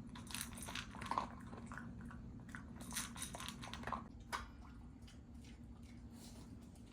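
Spitz dog chewing a crunchy treat: scattered faint crunches, most of them in the first few seconds.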